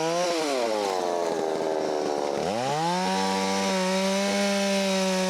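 Holzfforma 660 clone two-stroke chainsaw running at full throttle. Its pitch sags for about two seconds as the chain bogs down in a cut, then revs back up and holds steady.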